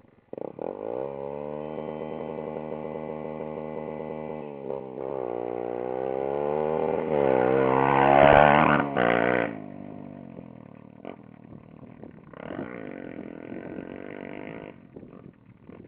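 Motocross motorcycle engine running at a steady pitch, then revving up from about five seconds in. It is loudest around eight seconds in and then fades to a fainter engine sound, with a short rise again near the end.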